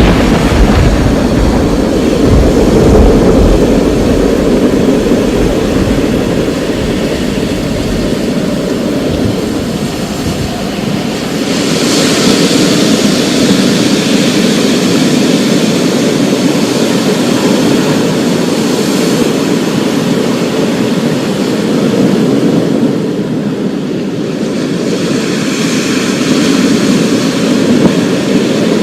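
Thunderstorm: steady heavy rain under a deep thunder rumble that fades away over the first several seconds. The rain swells louder about twelve seconds in and again near the end.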